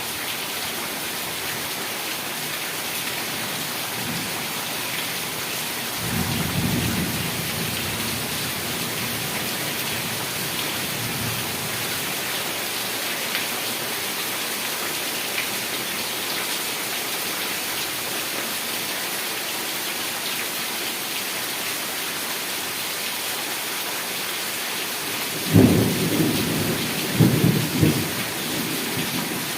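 Heavy rain falling steadily, with a low rumble of thunder about six seconds in and a louder peal of thunder, rolling in several surges, near the end.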